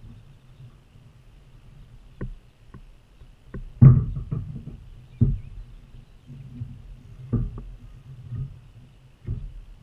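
Irregular hollow knocks and bumps against a kayak hull, the loudest about four seconds in, with smaller knocks scattered around it.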